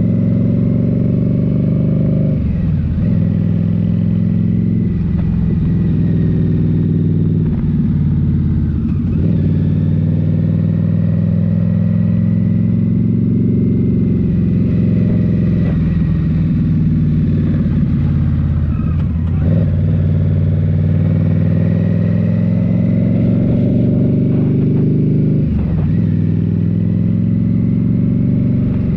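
A 2023 Indian Scout Rogue's 69 cu-in V-twin running at speed through a Rinehart slip-on exhaust. The engine note dips briefly several times as the throttle is eased and reopened.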